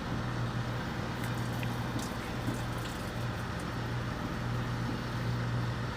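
A steady low machine hum with a faint, even hiss over it and no distinct events.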